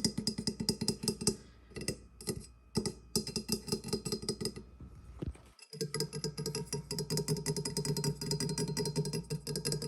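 Rapid ASMR finger tapping on hard objects, many quick taps a second. The tapping thins out and pauses briefly about halfway through, then resumes as a fast, even run.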